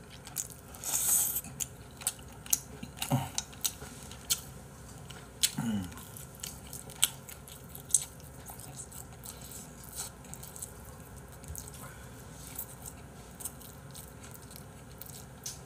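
A person chewing a mouthful of braised spicy chicken close to the microphone, with scattered wet lip-smacks and mouth clicks. A breathy burst comes about a second in, and a short falling vocal sound at about five and a half seconds.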